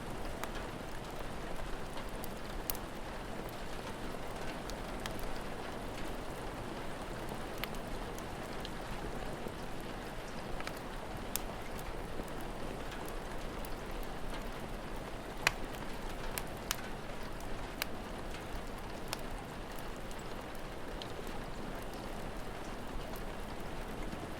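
Steady rain falling, with the scattered sharp pops and crackles of a wood fire; one pop about fifteen seconds in is louder than the rest.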